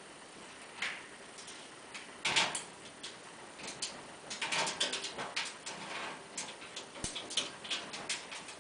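Peanuts being cracked and chewed by the pets: a run of irregular short crunches and clicks, thickest around the middle.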